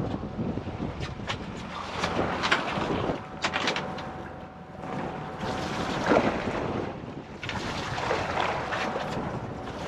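Strong wind buffeting the microphone on a small boat, an uneven rushing noise that rises and falls, with a few sharp knocks.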